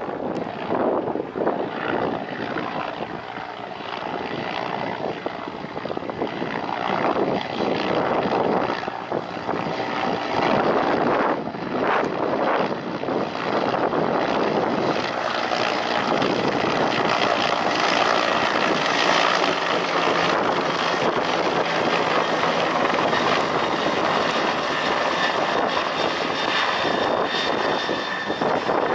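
Aircraft engine noise that builds over the first half and then holds steady, with a faint high whine running over it in the second half.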